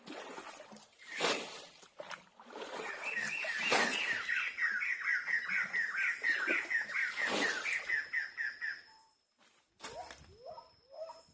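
A bird calling in a fast run of repeated short chirps for about six seconds, broken by a few short sharp noises.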